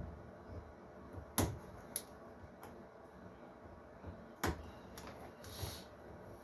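A few sharp clicks and light knocks, about four in all, spaced a second or so apart, with a soft rustle near the end: small hard parts being handled during LED strip wiring.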